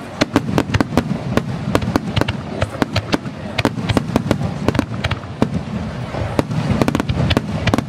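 Aerial fireworks shells bursting in quick, irregular succession: a string of sharp bangs and cracks, several a second, over a low rumble.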